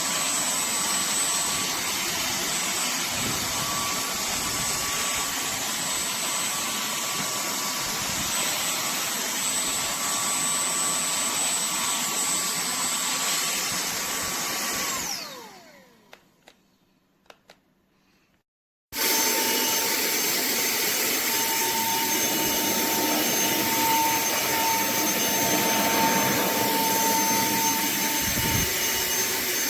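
TANYO cordless handheld vacuum cleaner running with a steady high whine. About halfway it is switched off and winds down, with a few faint clicks. A few seconds later it runs again, its whine a little lower in pitch.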